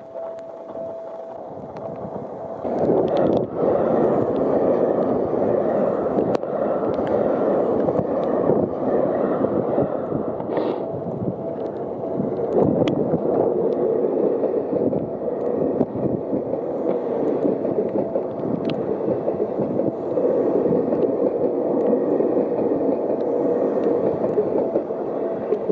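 Electric trains running past, a loud rumble of wheels on track that comes in suddenly about three seconds in and carries on steadily.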